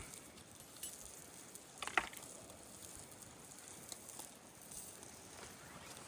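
Faint sizzling of meatballs on a grill, with two sharp clicks about two seconds apart.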